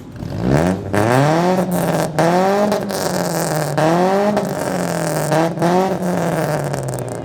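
Ford Escort engine revved hard through its exhaust. The revs climb quickly about half a second in, rise and fall in about four throttle blips, then settle lower near the end.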